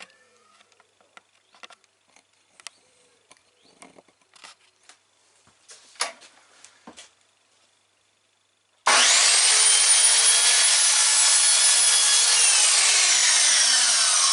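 Faint clicks and knocks of handling, then about nine seconds in a 1400 W Silverline mitre saw's motor starts abruptly. Its high whine rises quickly to full speed and holds while the blade cuts through a wooden fence post. Near the end the trigger is released and the whine falls steadily as the blade spins down.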